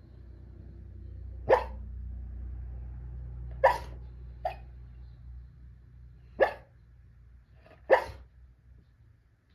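A sleeping dog giving five short barks spaced one to three seconds apart, the third one smaller, as it barks in its sleep.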